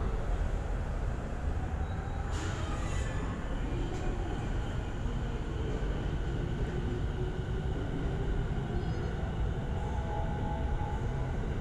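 JR East E217 series electric train running along the platform: a steady sound of wheels on rail and train motors.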